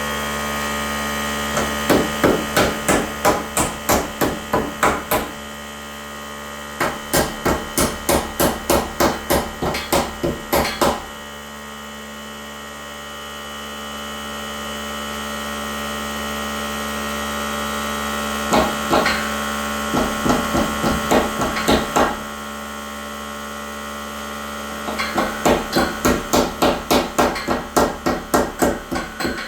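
Four bursts of rapid, evenly spaced hammer blows, about three to four a second, driving nails into wood, over a steady electrical hum.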